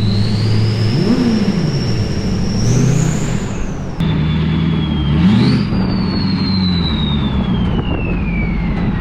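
Duramax V8 turbodiesel with a 64 mm upgraded turbo. A high turbo whistle rises as the engine revs over its low running note. After a sudden cut about four seconds in, a second whistle climbs with another rev, then slowly falls away as the turbo spools down.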